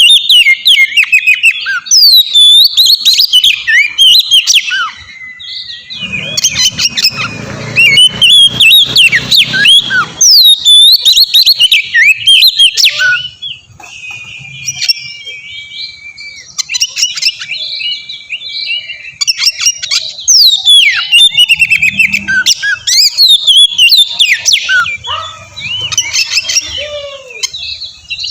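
Oriental magpie-robin (kacer) singing loudly: a fast, varied run of whistles and chirps. It holds one long steady whistle about halfway through, and a low rumble sits under the song for a few seconds about six seconds in.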